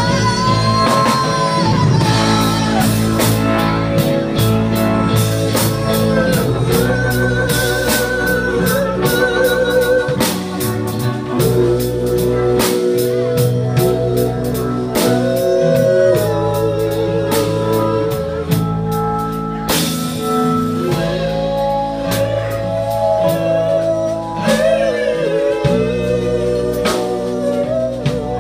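Blues band playing a slow instrumental stretch with no lyrics: a lead melody of held notes with vibrato over guitar, bass and drum kit.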